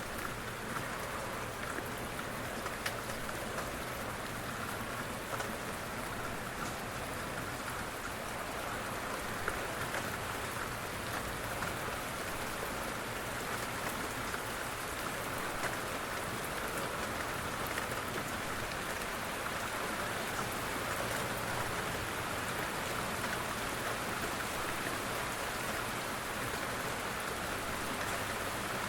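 Steady rain falling, an even hiss of drops with a few sharper individual drop taps standing out.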